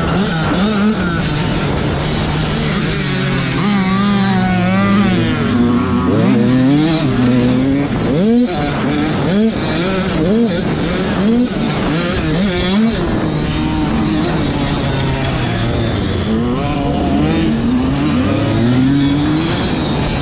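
85cc two-stroke motocross bike engines racing. Their pitch climbs and drops over and over as the riders rev out, shift and back off, with more than one engine heard at once at times.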